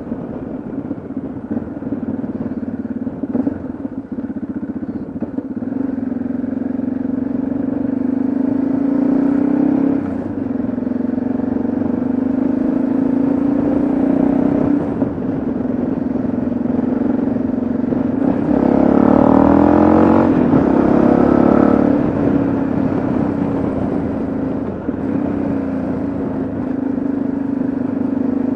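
Yamaha XT660Z Ténéré's single-cylinder engine running on the road, its pitch climbing under acceleration and dipping briefly at gear changes about ten and fifteen seconds in. A louder, busier stretch of engine sound follows about two-thirds of the way through.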